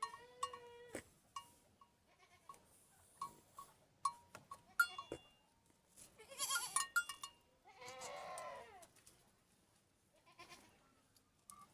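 Goats bleating: a short bleat at the start and a longer, quavering bleat about eight seconds in, with scattered small clinks and knocks in between.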